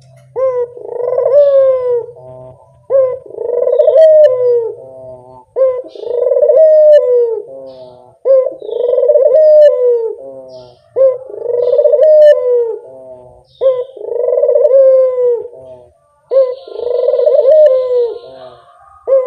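Puter dove (domestic ringed turtle dove) cooing as a lure call: seven near-identical phrases, each a short sharp note followed by a long coo that drops in pitch at its end, repeating about every two and a half seconds.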